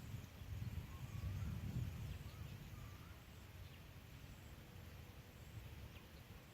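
A few faint bird chirps over a low, uneven rumble on the microphone, the rumble stronger in the first two seconds or so and then easing.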